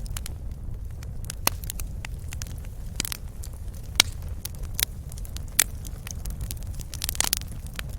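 Wood fire crackling in a fireplace: irregular sharp pops and snaps over a steady low rumble, with a quick cluster of pops near the end.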